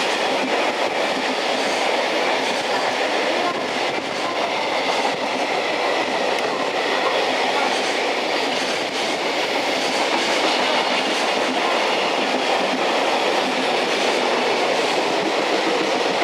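Container freight wagons rolling steadily past at speed, steel wheels on rails making a continuous running noise with irregular clicks over the rail joints.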